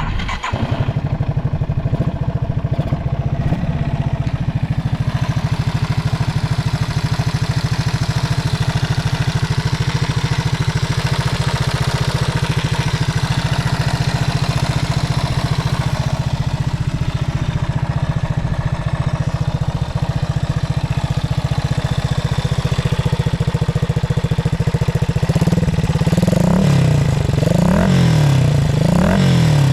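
Yamaha TW200's air-cooled single-cylinder four-stroke engine, fitted with a Supertrap down muffler, idling steadily. It is then revved in several quick blips near the end, rising and falling in pitch.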